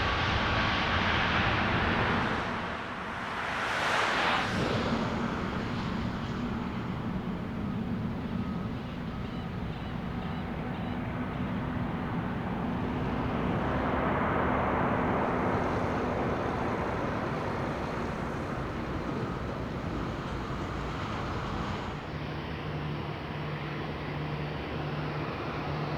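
Jet aircraft noise easing away after a pass, leaving a steady rumble of outdoor traffic noise. There is a brief swell about four seconds in and a steady low hum near the end.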